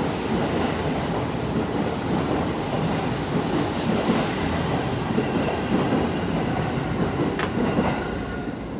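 Tokyo Metro 05 series electric commuter train departing the station and rolling past close by, with a steady rumble of wheels on rail. A sharp click comes about seven seconds in, and the sound eases off near the end as the last car clears.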